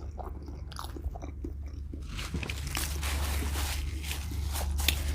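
A person chewing food close to the microphone, with small wet clicks of the mouth and bites, growing denser and louder from about two seconds in, over a steady low hum.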